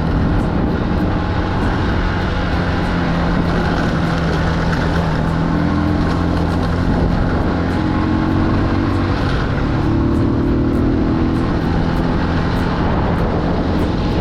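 Small motorbike engine running under way, with a steady rush of wind and road noise. The engine note rises and falls a little with speed.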